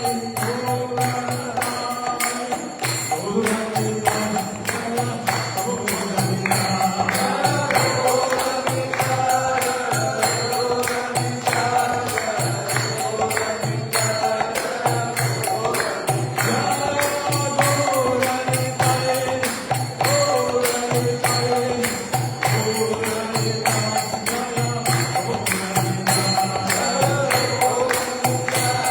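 Kirtan: voices chanting a mantra to a tune, over a fast, steady beat of jingling percussion and a repeating low drum-like pulse.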